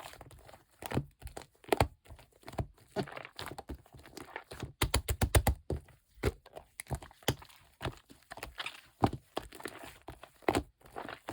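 Shaving-foam slime being squished and pressed by hand, making irregular sticky pops and crackles. About five seconds in comes a quick run of a dozen or so pops.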